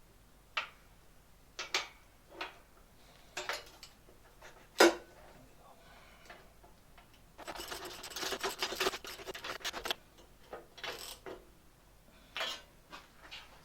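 Workshop handling sounds: scattered clicks and knocks of metal parts and tools being picked up and set down, with one sharp knock about five seconds in. A rough scraping, rummaging noise lasts about two and a half seconds in the middle.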